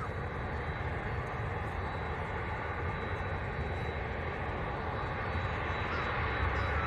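Jet airliner engines running, a steady rumble with a thin high whine, growing a little louder near the end.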